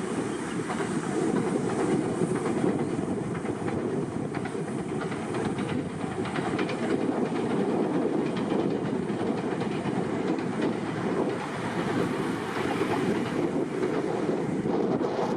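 Train on the JR Uchibo Line running along the rails, its wheels clattering steadily.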